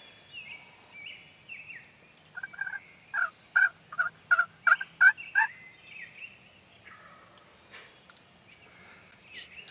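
Turkey yelping: a series of about nine evenly spaced yelps over some three seconds, getting louder. Small birds sing faintly in the background.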